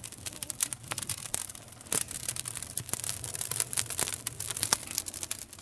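Wood campfire crackling, with a dense run of irregular sharp pops and snaps, a few standing out louder than the rest.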